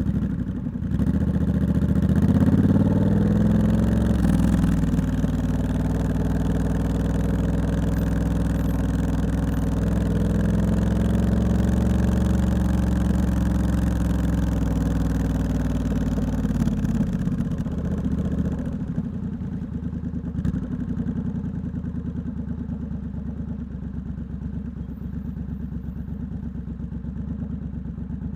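Triumph Scrambler 1200X parallel-twin engine through a loud aftermarket Hitchcox exhaust, with the recording clipping a little. The revs rise and fall in the first few seconds, hold steady while riding, then drop away about seventeen seconds in and the engine settles to a lower, quieter idle for the rest.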